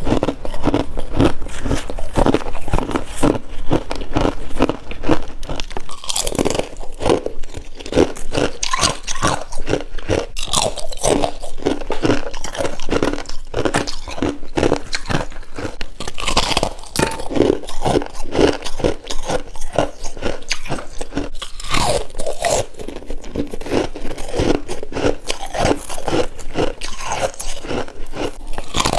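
A person biting into and chewing mouthfuls of freezer frost, a rapid run of close, wet crunches one after another.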